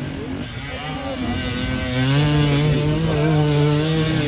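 Off-road racing engine under hard throttle: it rises in pitch over the first couple of seconds, holds steady at high revs, then drops off right at the end.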